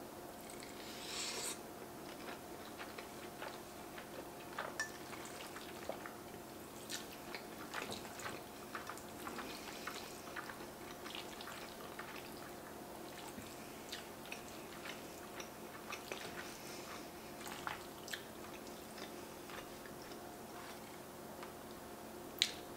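Close-miked chewing of a mouthful of creamy egg noodles and braised beef, with many small wet mouth clicks and smacks, and a fork clinking in a ceramic bowl; one sharper click near the end. A faint steady hum lies underneath.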